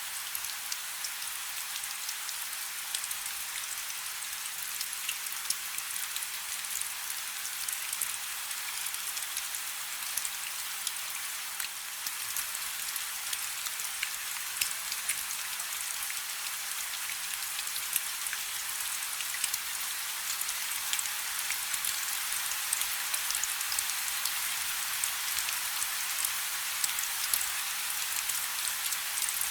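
Steady rain falling on a river: a dense, even hiss made of countless small, sharp drop hits.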